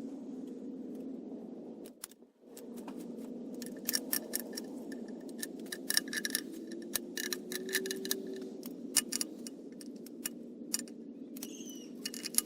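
Irregular light metallic clicks and clinks of hand tools and bolts as the oil pan bolts are run in loosely, over a steady low hum. The clicks start about three and a half seconds in after a brief drop in sound.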